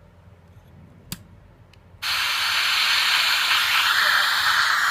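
A single sharp click, then about two seconds in a Blaupunkt Frankfurt S transistor car radio comes on with a loud, steady hiss of static between stations, which shifts in tone about a second and a half later.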